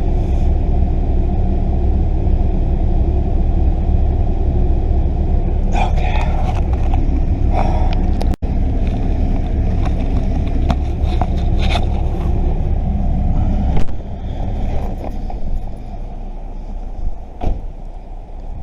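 A vehicle engine running with a steady low rumble, with scattered clicks and knocks over it; the rumble drops in level about fourteen seconds in.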